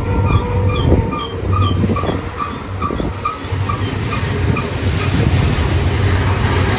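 BNSF intermodal freight train rolling past with a steady rumble of its cars, and a short high wheel squeal chirping about three times a second that fades out about four to five seconds in.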